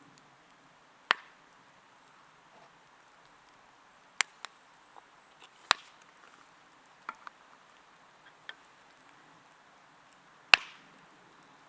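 Kitchen knife striking a cutting board in slow, irregular cuts, about eight sharp knocks with pauses between, the loudest about ten and a half seconds in.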